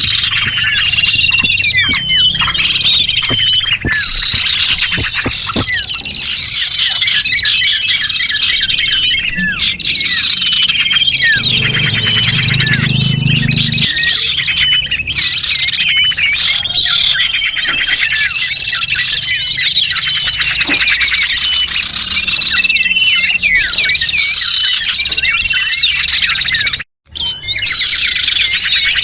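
Dense, continuous chirping and twittering of small songbirds, many high calls overlapping: a lure call (pikat) recording played to draw in small wild birds. The sound cuts out completely for a moment near the end.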